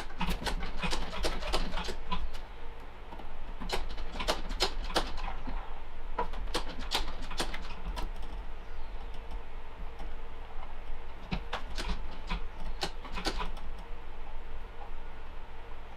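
Irregular light clicks and knocks of hand tools and metal parts being handled on a small Briggs & Stratton DOV mower engine while its valve cover is taken off, over a steady low hum.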